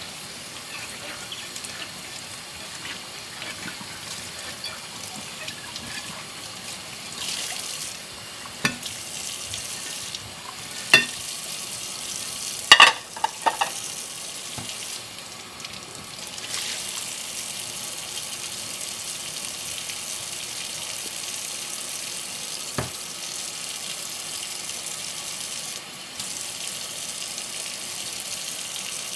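Dishes being washed by hand at a kitchen sink: tap water runs steadily and gets a little stronger after about the middle. Dishes clink and knock against each other now and then, with the loudest quick cluster of knocks about thirteen seconds in.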